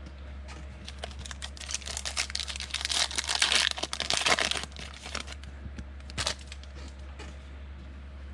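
Plastic foil trading-card pack wrapper being torn open and crinkled by hand, a dense run of crackling for about three seconds, then one more short crinkle.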